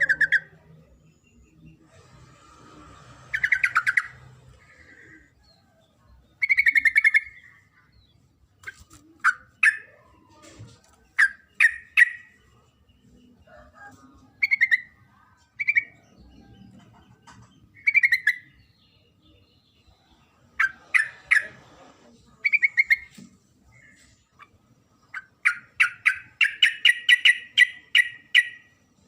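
Female yellow-vented bulbul (trucuk) calling: short, bubbly calls repeated every second or two, then a fast run of chattering calls near the end. This is the female's call to a male.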